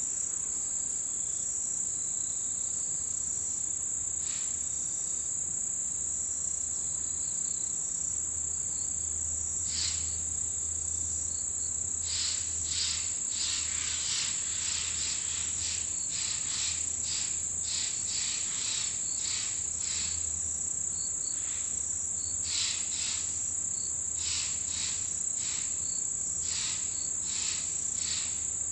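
Autumn insects calling in a mountain forest: a steady, high-pitched insect trill, joined about twelve seconds in by a run of short, repeated chirping pulses.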